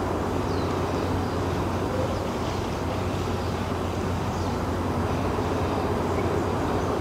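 Steady outdoor background noise with a low, even hum, unbroken throughout, and a few faint high chirps now and then.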